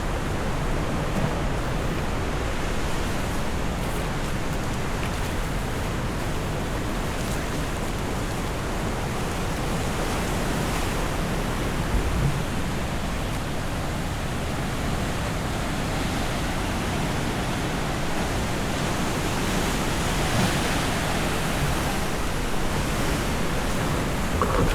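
Steady rushing noise of wind and sea surf, with a low rumble of wind on the microphone.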